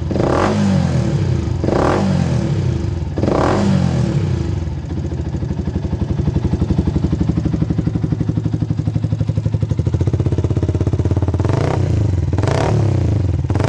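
Yamaha YZF-R125's single-cylinder four-stroke engine through a Tiger GPm2-800 carbon fibre exhaust, blipped three times in quick succession, each rev rising and falling quickly. It then idles with an even pulsing beat before two more sharp revs near the end.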